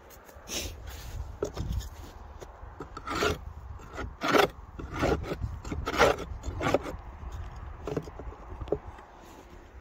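A tool scraping and rasping at the wooden entrance of a beehive in an irregular run of short strokes, clearing out ice and dead bees that block it. The strokes are strongest in the middle and thin out near the end.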